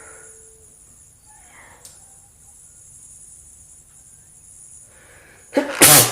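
A held guitar note dies away in the first second, then a quiet room with faint hiss, broken near the end by a sudden loud, noisy child's 'atchoum' sneeze sound.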